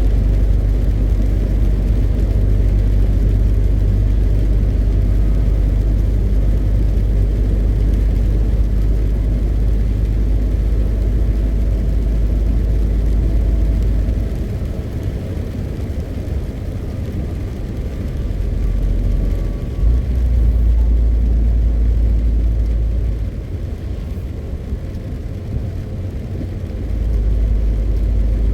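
A MAN TGX 520 truck's diesel engine droning with tyre and road noise while driving. The deep rumble drops away about halfway through, swells back, then eases off again before rising near the end, as the load on the engine changes.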